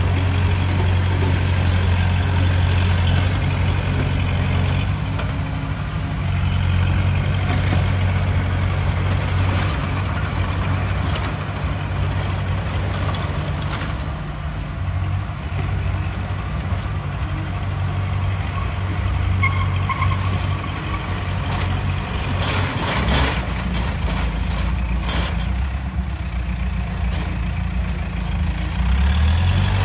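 Heavy diesel earthmoving machinery running: a steady low engine drone, with a few knocks and clatters about two-thirds of the way through.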